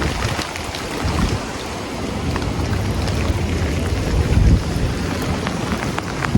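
Storm wind and driving rain, the gusts buffeting the phone's microphone in a heavy low rumble, with rain ticking and spattering over it.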